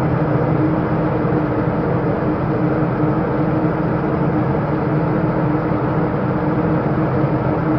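Ship's machinery running steadily: a loud, constant drone with a steady low hum.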